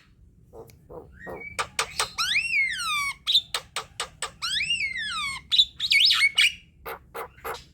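Javan myna (jalak kebo) singing a chattering song: rapid harsh clicks and chirps, broken by two long falling whistles, one about two seconds in and another around four and a half seconds.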